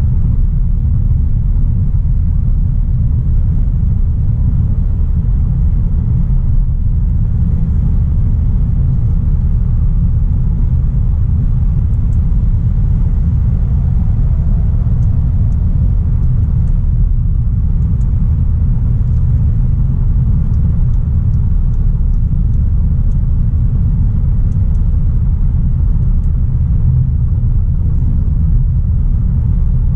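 Steady low driving rumble of a 2016 Audi A3 Sportback 1.4 TFSI under way: road and tyre noise mixed with its turbocharged four-cylinder petrol engine, holding an even pace with no revving.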